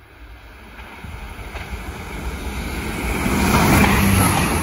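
Irish Rail 22000 Class diesel railcar approaching and passing close by, its engine and wheel noise building steadily over about three seconds into a loud, steady rush as the carriages go past.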